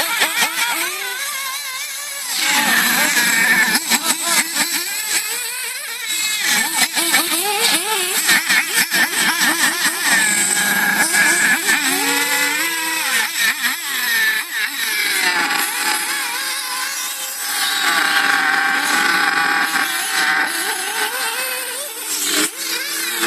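Radio-controlled model cars running, their motors revving up and down in a high-pitched whine that keeps rising and falling in pitch as the cars speed up and slow.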